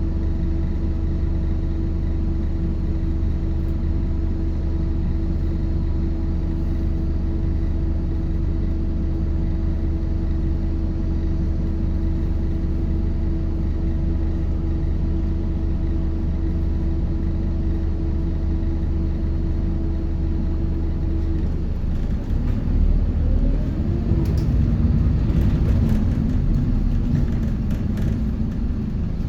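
Interior sound of a Scania K230UB city bus's diesel engine: a steady, even hum for about twenty seconds, then it grows louder with a rising whine as the bus accelerates.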